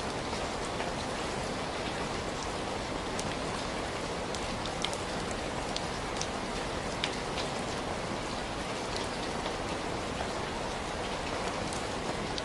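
Steady rain falling, an even hiss with scattered sharp little clicks throughout.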